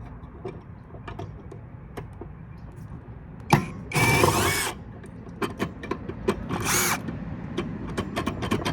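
A power drill-driver running in two short bursts, about four and about six and a half seconds in, backing out screws. Light clicks and taps of metal parts being handled come before and between the bursts.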